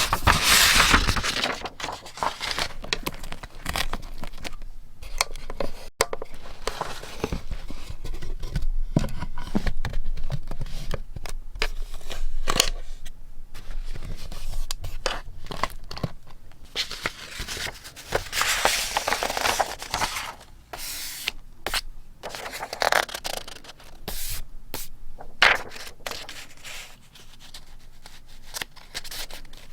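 Close-up paper handling for scrapbooking: sheets being torn, rustled and cut with scissors. It comes as many short sharp crackles and snips, with a few longer tearing swells past the middle.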